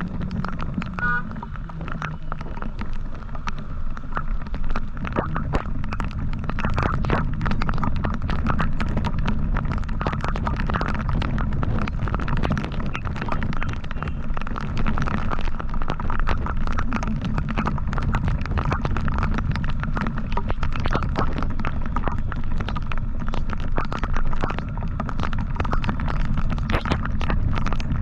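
Motorcycle riding along, its engine and road noise under a heavy, continuous wind rumble buffeting the microphone.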